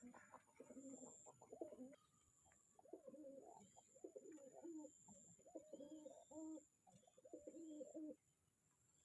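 Domestic pigeons cooing: low, throaty coos in two bouts, a short one at the start and a longer run after a brief pause, stopping about eight seconds in.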